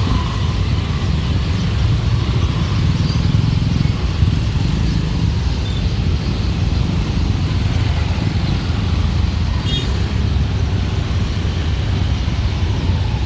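Dense street traffic: motorbikes and cars running past in a steady, unbroken rumble.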